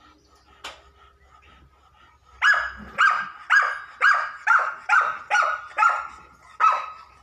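A dog barking: about nine sharp barks in quick succession, roughly two a second, beginning a couple of seconds in.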